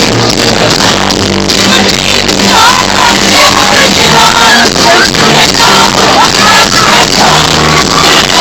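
A live band playing loud pop-rock, recorded on a phone from the audience so the sound is harsh and distorted, with voices singing and shouting over it.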